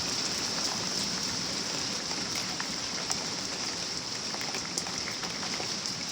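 Rain pouring down in a steady hiss, with scattered ticks of drops striking nearby surfaces.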